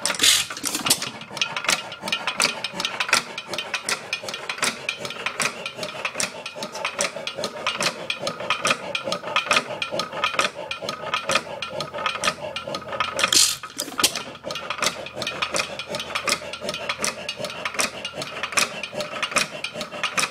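Bates and Edmonds Bull Dog 2½ hp hit-and-miss engine running: a fast, even clatter of clicks from its valve gear and governor. There are two louder bursts, one just after the start and one about thirteen seconds in.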